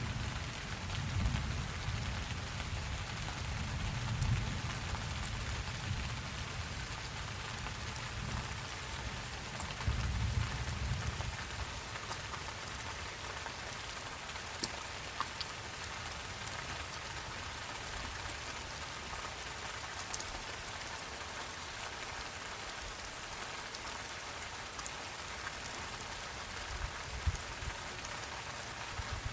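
Steady rain falling, with a low rumble of thunder that dies away about twelve seconds in and a faint low rumble again near the end. A few light drip ticks sound over the rain.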